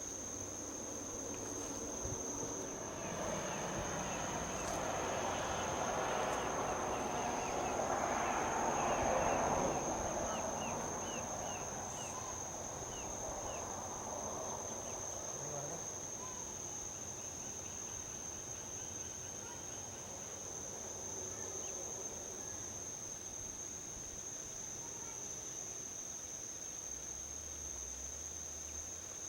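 Steady high-pitched trill of insects such as crickets, with a passing vehicle on the highway swelling to a peak about nine seconds in and fading away by about fifteen seconds. A few short high chirps sound about ten to thirteen seconds in.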